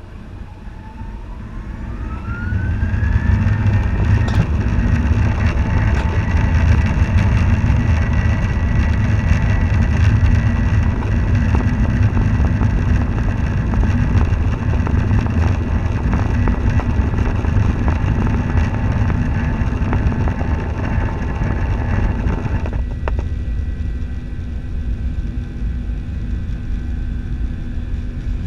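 Boeing 737-900's CFM56 jet engines spooling up to takeoff thrust: a whine rises in pitch over the first few seconds and the sound grows loud. It then holds as a steady loud rumble with a high whine through the takeoff run. About twenty seconds in, the whine drops away suddenly, leaving the rumble.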